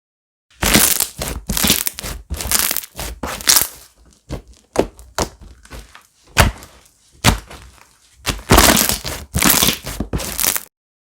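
Slime being squeezed and pressed by hand, making a run of crunchy, crackling squishes at about one or two a second. The sound starts about half a second in and cuts off suddenly near the end.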